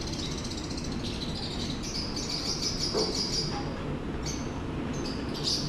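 Many small caged birds chirping and chattering at once, a dense twittering that carries on without a break over a steady low background hum.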